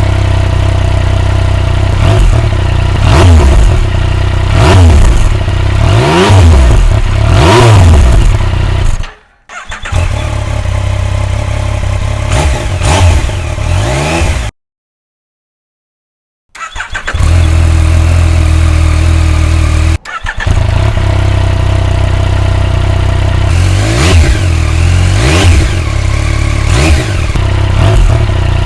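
Yamaha Tracer 900GT's 847 cc inline-three engine idling and revved again and again, its pitch rising and falling with each rev through the exhaust. The sound cuts off abruptly a few times, with a short stretch of silence near the middle.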